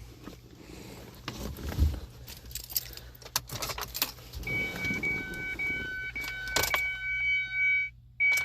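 Keys jangling and clicks at the ignition of a 2003 Ford Escape, then a dashboard warning chime beeping in a steady repeating pattern. No starter cranking or engine is heard: the engine won't crank.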